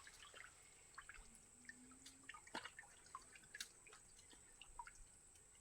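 Faint, irregular water drips and small splashes, a dozen or so scattered ticks.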